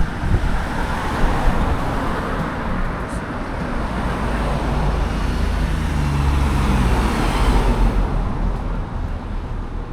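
Street traffic: car engines and tyres running past, swelling to the loudest around seven seconds in with a low engine hum, then easing off.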